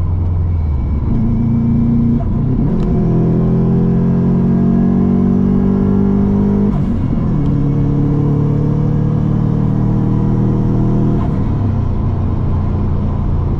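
Subaru WRX's turbocharged flat-four engine pulling hard through the gears, heard from inside the cabin. The engine note climbs in each gear and drops at three upshifts, with a brief rush of air at the shifts from the Turbosmart blow-off valve venting.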